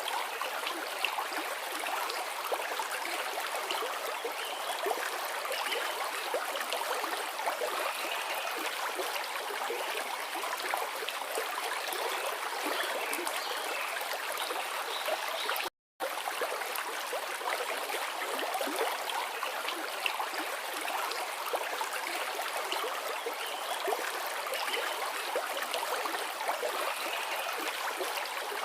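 A forest river flowing: a steady rush of water with many small splashes and gurgles. It cuts out completely for a split second about halfway through.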